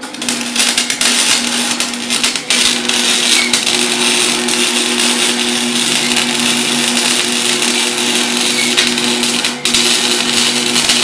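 MIG welding arc crackling and frying steadily while a bead is laid on a steel turbo flange, with a short break about two and a half seconds in. A steady hum runs underneath.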